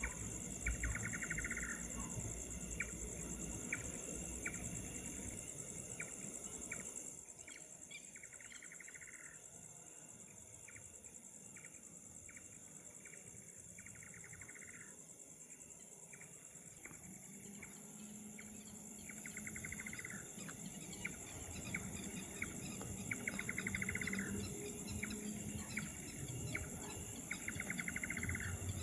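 Night insect chorus: a steady high-pitched trilling of crickets, with a separate call of rapid pulses repeating every few seconds and single short chirps between. The chorus drops in level about seven seconds in and builds again in the second half.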